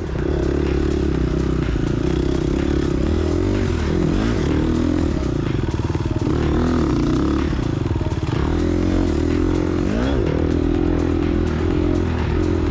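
Gas Gas EX250F dirt bike's 250cc four-stroke single-cylinder engine running under load, its revs repeatedly dropping off and picking back up.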